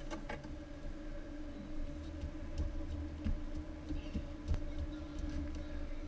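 Car engine running at idle, heard from inside the cabin as a steady low hum with a few faint clicks and knocks.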